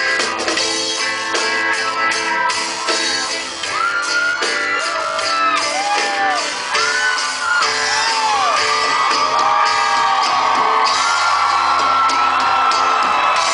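Live band music with audience members whooping and shouting over it, the whoops coming more often in the second half.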